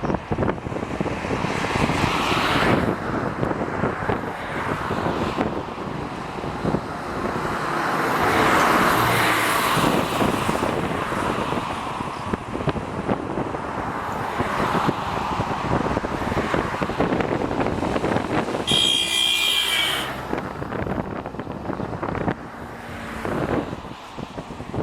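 Airbus A330-200 airliner's jet engines during its landing, a steady rushing noise that swells about eight to ten seconds in, with wind buffeting the microphone. A brief high whine sounds near the end.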